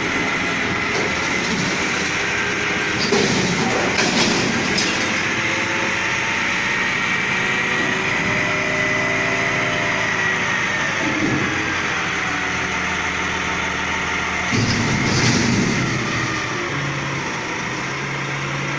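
Front-load garbage truck running, with a steady whine over the engine and a pitch that rises and falls through the middle. Sharp metallic clanks come about three to four seconds in and again near fifteen seconds.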